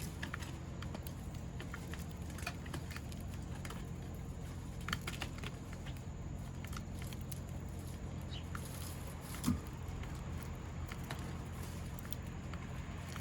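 Eurasian tree sparrows pecking and hopping at a feeder: scattered light taps and ticks over a steady low hum, with one louder thump about nine and a half seconds in.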